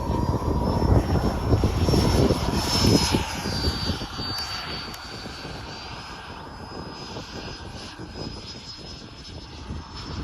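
Electric ducted fan of a radio-controlled F-22 model jet whining at high throttle on a short-field takeoff. The sound is loud at first and fades over the following seconds as the model climbs away.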